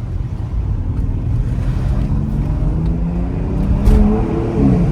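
BMW X3 M's twin-turbo straight-six accelerating, its pitch rising steadily from about a second and a half in, then falling sharply near the end, over a steady low road rumble.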